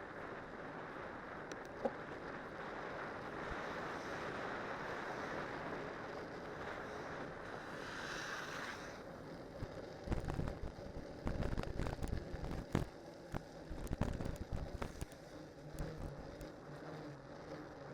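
Cyclocross bike with spiked tyres descending a winter road: a steady rush of wind and rolling noise, then from about ten seconds in, irregular low thumps and rattles as the bike jolts over bumps.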